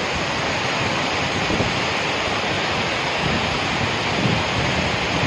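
Heavy rain pouring down onto a flooded street: a steady rushing hiss.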